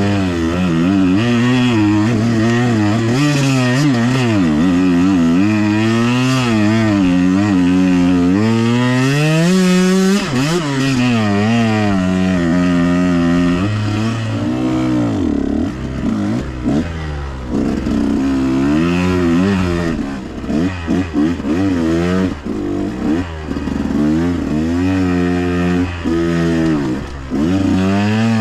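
Dirt bike engines revving, the throttle opened and eased off over and over as the pitch rises and falls. From about halfway it turns choppier, with short throttle blips and a second engine's pitch crossing the first.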